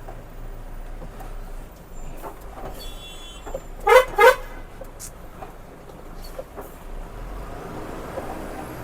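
Two short vehicle horn toots in quick succession, over the steady low rumble of a truck's engine and road noise.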